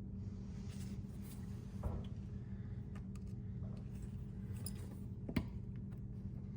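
A few light clicks and taps of small Delta faucet parts being handled during a seat-and-spring repair, the sharpest about two thirds of the way through, over a steady low hum.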